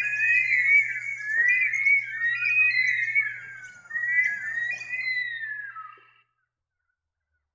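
Bush stone-curlews calling: several wailing whistles that rise and fall and overlap one another, stopping suddenly about six seconds in.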